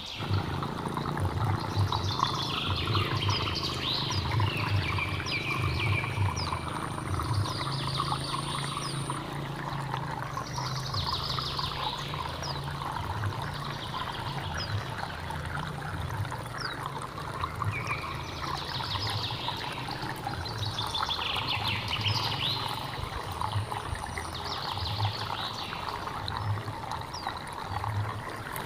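A hill stream trickling and splashing steadily, with a bird singing short high phrases every few seconds over the water.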